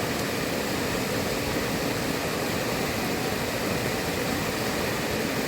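Steady, unbroken rush of a fast-flowing river.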